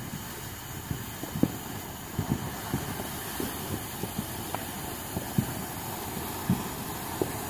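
Distant fireworks thudding and popping at irregular intervals over a steady hiss.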